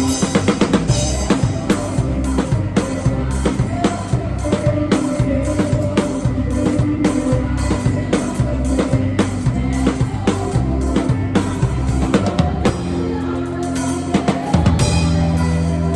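Live drum kit playing a steady beat, with kick, snare and rim clicks and cymbals, over a band's sustained bass and other instruments. Picked up by a phone's microphone in the room.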